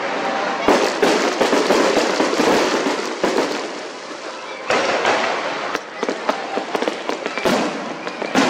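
Aerial fireworks bursting and crackling overhead: dense crackling in two waves, then sharp single bangs near the end.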